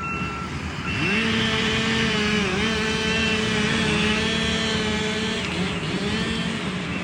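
Engine of a heavy land-clearing machine revving up about a second in and running at high steady speed, dipping briefly twice.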